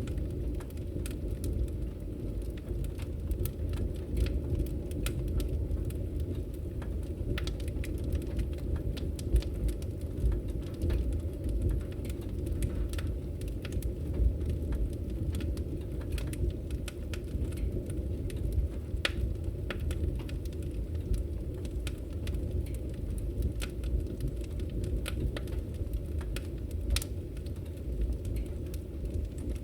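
Wood fire burning: a steady low rumble of the flames with frequent scattered sharp crackles and pops from the firewood.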